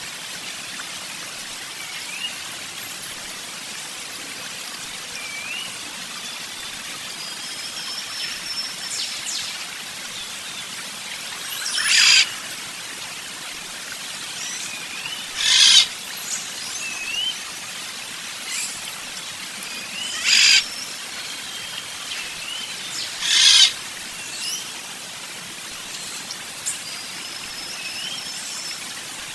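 Wild birds calling over a steady hiss: short, high, rising chirps repeat every few seconds, and four loud, harsh calls of about half a second each come roughly three to four seconds apart in the middle.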